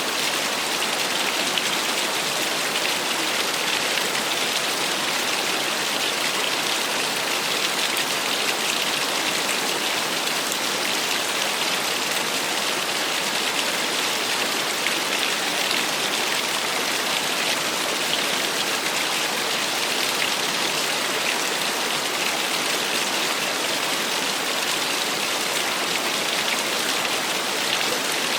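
Small waterfall splashing steadily: an even, unbroken hiss of falling and splashing water.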